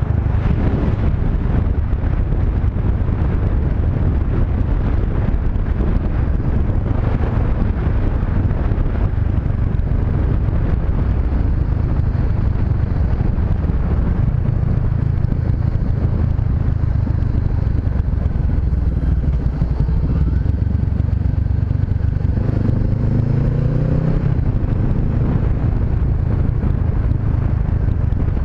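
Honda CB500X parallel-twin engine running under way, with steady wind and road noise. About 22 seconds in, the revs rise for a couple of seconds as it accelerates, then fall back as it shifts.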